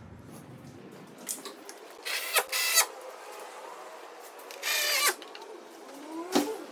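Cordless power driver run in two short whining bursts a couple of seconds apart, driving in the bolts that fasten the center console to its floor brackets. A sharp knock follows near the end.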